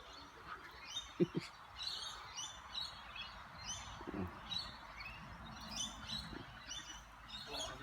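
Birds chirping and calling in quick succession, short high calls repeating every half second or so. Two brief low sounds come close together about a second in.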